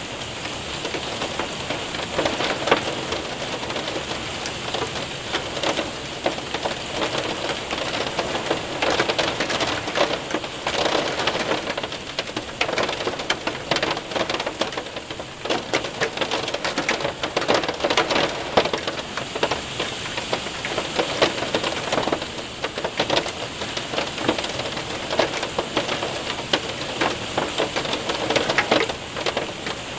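Hail and heavy rain hitting a window and roof: a steady hiss of rain dense with sharp ticks of hailstones striking.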